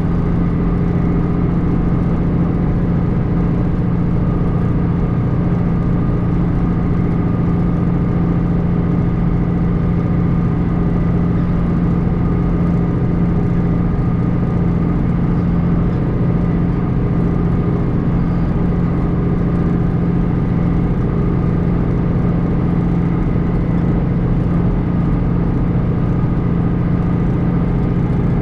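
John Deere 2940 tractor's six-cylinder diesel engine running steadily at working speed, pulling a PTO-driven Kuhn rotary hay rake; an even, unchanging drone.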